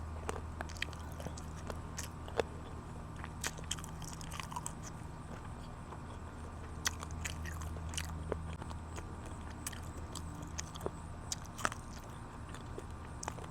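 Close-miked chewing and biting into chicken wings, with irregular sharp crunches and wet clicks. A steady low hum runs underneath.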